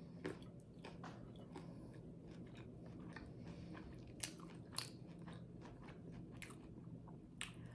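A person chewing crunchy garlic bread close to the microphone: steady mouth sounds broken by sharp, crisp crunches, four louder ones scattered through.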